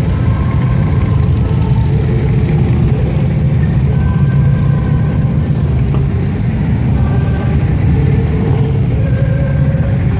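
Police motorcycle engine running steadily at low speed, a continuous low hum with no breaks.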